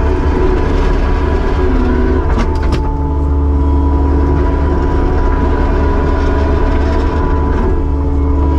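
Kubota SVL75-2 compact track loader's diesel engine running steadily at working revs, its note shifting slightly about three seconds in. A couple of sharp metallic clanks come about two and a half seconds in.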